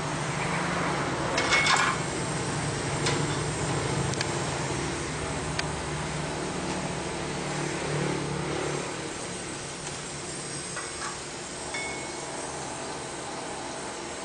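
A few metallic clinks and taps over a steady low hum, the loudest a ringing clink near the start.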